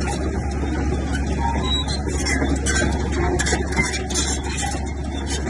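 Heavy diesel earthmoving machinery running steadily, a constant low engine hum with irregular clattering over it.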